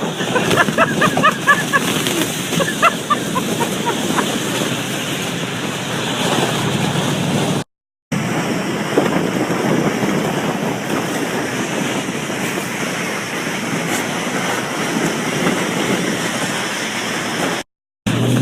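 Wind rushing over the microphone with a steady hiss of snow as a raft is towed at speed through deep snow, with a few short high squeaks in the first few seconds. The sound cuts out briefly twice.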